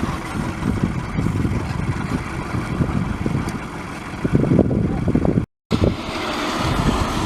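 Strong gusting wind buffeting the microphone, a heavy rumble that swells and eases, with a split-second dropout near the end.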